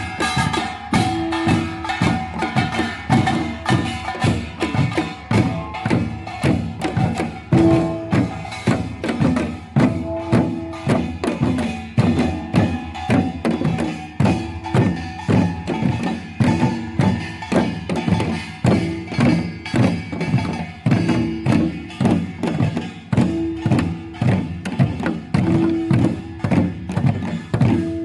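Korean samul nori percussion ensemble playing a fast, driving rhythm: dense, even strikes on drums and small gong, with ringing metal gong tones over the beat.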